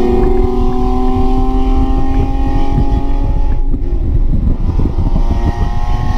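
Stock BMW 328i 3.0-litre straight-six pulling hard under full throttle, its note rising steadily in pitch as it revs, with a brief break in the sound about halfway. Heard from inside the cabin over heavy wind and road rumble.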